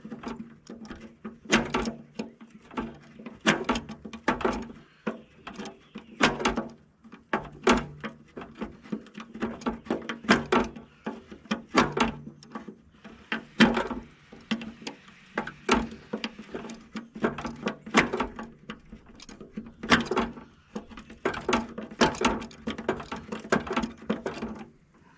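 Irregular clicks, taps and knocks of hand tools and small metal parts being handled while the tractor's dash controls are taken apart, over a steady low hum.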